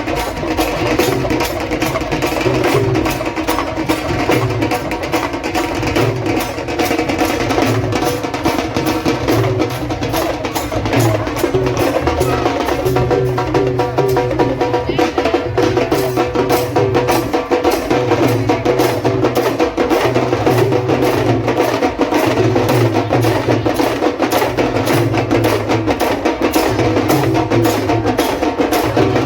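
Loud traditional percussion music: many fast, even drum strokes over a low beat that repeats in blocks of about a second.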